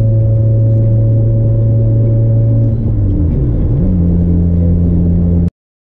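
Toyota Celica GTS's 2ZZ-GE four-cylinder engine and loose TRD exhaust droning steadily at freeway speed, heard from inside the cabin, with no scraping from the zip-tied exhaust. About three seconds in, the engine note dips and then climbs to a steady higher pitch. The sound cuts off suddenly near the end.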